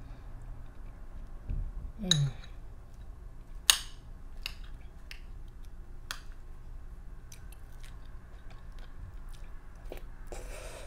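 A person chewing and eating butter pecan ice cream with nuts from a glass dish with a metal spoon. There are wet mouth sounds, a few sharp clicks with the loudest about four seconds in, and a short low falling sound about two seconds in.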